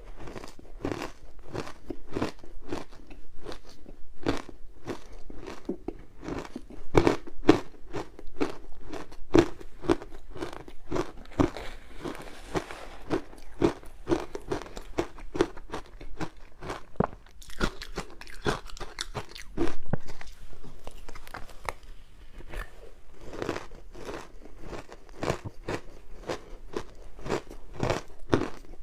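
Close-up crunching of frozen matcha ice being bitten and chewed, in a steady run of about two crunches a second.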